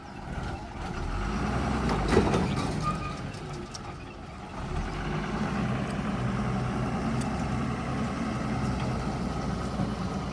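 Heavy diesel engine of a borewell drilling rig truck running steadily, with a knock about two seconds in and a brief drop in level about four seconds in.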